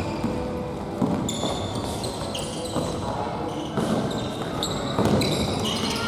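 Futsal being played on an indoor gymnasium court: shoes squeaking in short high chirps on the floor, with a few sharp ball kicks and bounces in the echoing hall and players calling out.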